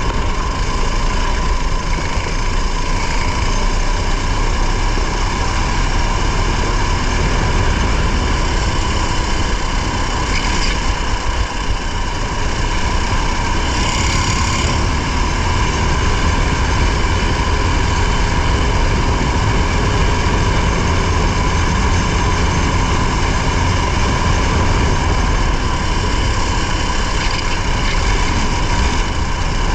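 Race vehicle's engine running hard at a nearly constant pitch, heard from an onboard camera, over a steady low rumble of road and wind noise.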